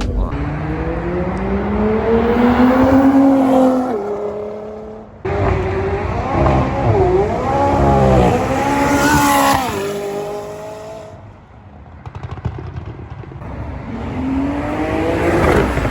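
Performance car engines revving and accelerating past, the exhaust note climbing in pitch in long pulls, with quick up-and-down blips of the throttle in the middle. The sound breaks off suddenly about five and eleven seconds in.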